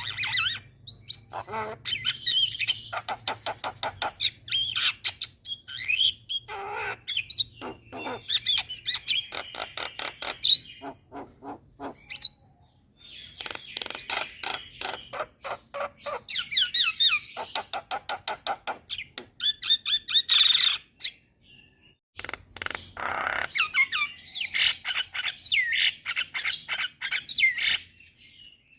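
Starlings chattering and singing: fast runs of sharp clicks mixed with whistled, gliding notes, broken by two short pauses.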